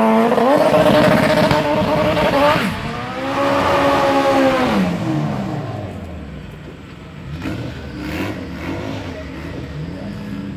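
Drag-racing Honda Civic's engine at full throttle on a launch: a loud engine note climbs and holds, dips briefly at a gear change about two and a half seconds in, then falls away about five seconds in. After that the engine is heard lower and quieter, revving up and down at the start line.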